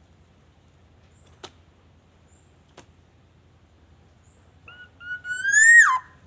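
Black-naped oriole (kepodang) giving a loud, fluty whistle near the end: a short note, then a longer note that rises slightly and falls away steeply at its close. Two faint clicks sound earlier.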